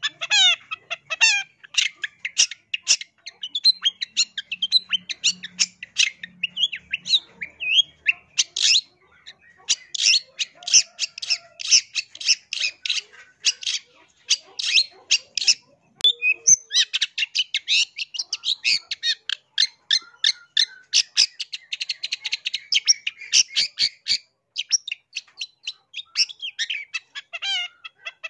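Long-tailed shrike singing: fast runs of short, sharp, high chattering notes and rattles, broken by brief pauses.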